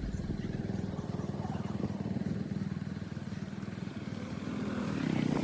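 Motorcycle engine running steadily, with rapid, even firing pulses, getting a little louder near the end.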